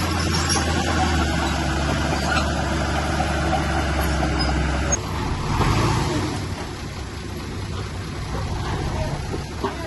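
Diesel engine of heavy earthmoving machinery running steadily with a low hum. About halfway through the sound changes abruptly to a rougher, slightly quieter machine noise.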